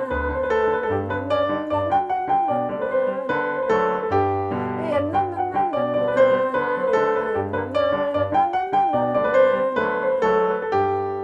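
Electric keyboard playing a lively nigun melody over chords and a bass line that changes about once a second.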